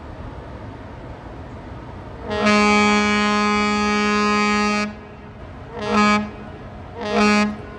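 Cruise ship Viking Octantis's whistle sounding a salute: one long blast followed by two short ones, a single low note with many overtones, the long-and-two-short salute given to spectators ashore.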